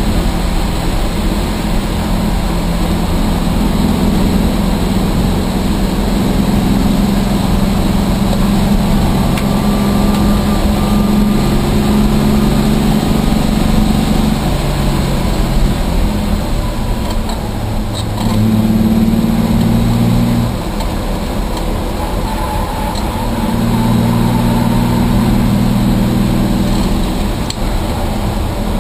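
Rambler race car's engine heard from inside the stripped cabin, pulling hard around the track under steady throttle. Its pitch holds for several seconds at a time and steps down and back up with throttle lifts and gear changes, over constant road and wind noise.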